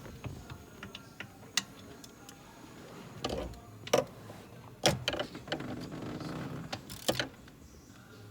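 Irregular clicks and a few sharper knocks of hand tools and metal parts being handled during work on a steering column.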